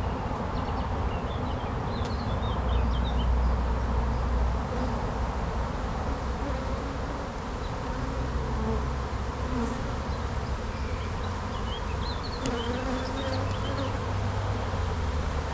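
A colony of honey bees buzzing steadily around an opened hive, a dense hum of many wings.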